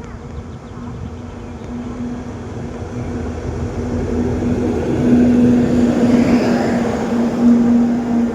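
Goods train approaching on the track: a low rumble that grows steadily louder, with a steady low hum over it.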